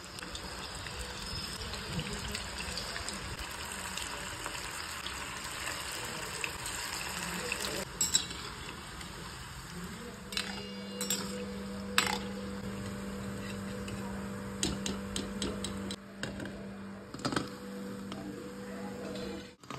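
Vegetable Manchurian balls deep-frying in hot oil, a steady sizzle, with a metal slotted spoon clinking against the steel pan now and then from about eight seconds in. A low steady hum runs beneath for several seconds in the middle.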